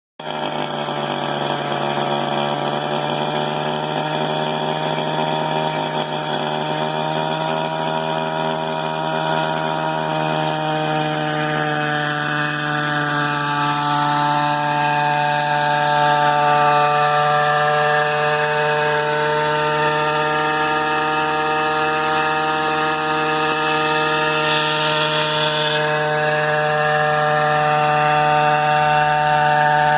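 Small engine of a variable-pitch quadcopter running steadily as the craft hovers in a position-hold test. The deepest tone holds constant while some higher tones drift slightly in pitch, and it grows a little louder over the span.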